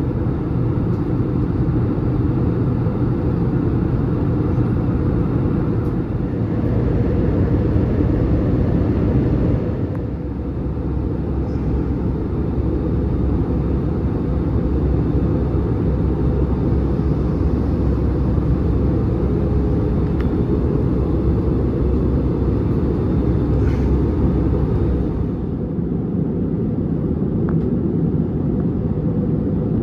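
Airbus A320neo cabin noise in descent: a steady low rumble of engines and airflow. The sound shifts slightly about ten seconds in, and its higher hiss drops away near the end.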